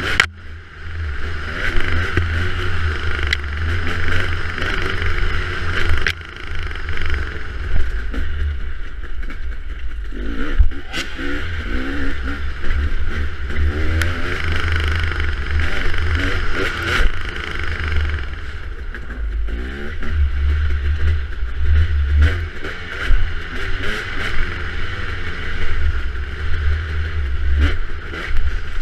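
Off-road dirt bike engine running hard, its pitch rising and falling with the throttle, over a constant low rumble.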